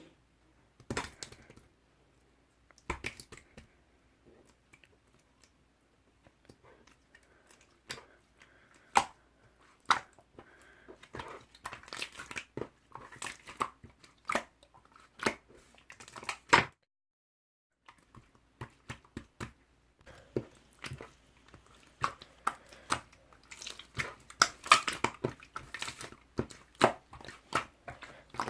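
Slime being squished, pressed and poked by hand, giving a run of sharp clicks, pops and crackles. They come sparsely at first and much thicker in the second half, with a brief break just past the middle.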